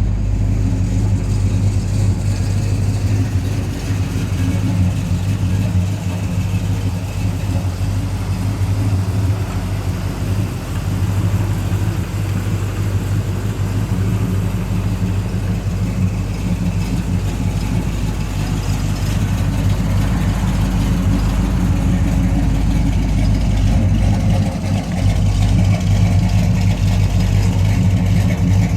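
Chevrolet 350 small-block V8 running steadily through a Thrush muffler with a cammed, mean idle, getting a little louder near the end.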